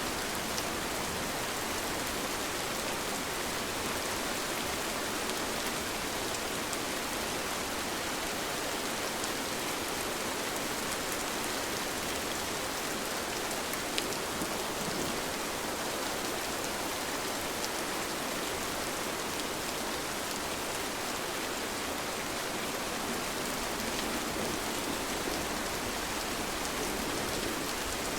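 Steady rain falling, an even hiss with scattered individual drops ticking on surfaces and one slightly sharper drop about halfway through.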